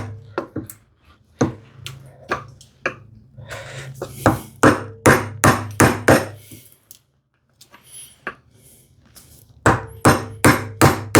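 Repeated blows driving a bevel-edge chisel into wood, chopping a mortise: sharp knocks about two or three a second, a pause of about two seconds past the middle, then a quicker run near the end.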